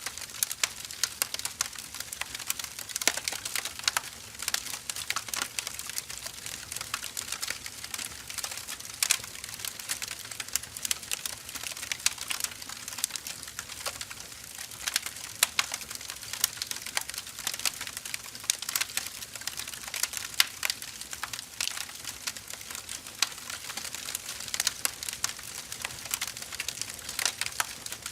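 Wood fire crackling: dense, irregular pops and snaps of burning firewood over a steady hiss.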